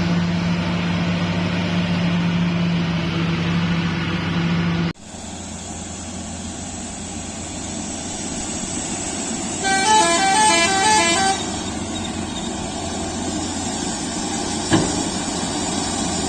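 A heavy truck engine runs steadily for about five seconds, then the sound cuts off abruptly to road noise. Near the middle, a multi-tone musical horn plays a quick run of short notes at different pitches for under two seconds. A single sharp click comes near the end.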